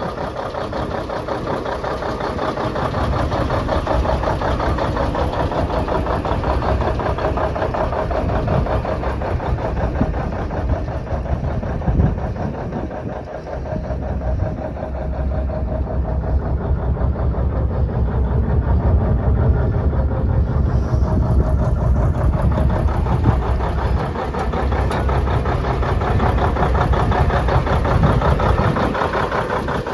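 Cummins diesel engine of a 1994 Peterbilt 377 truck idling with a steady, rapid clatter. Its low rumble grows stronger about halfway through and again near the end.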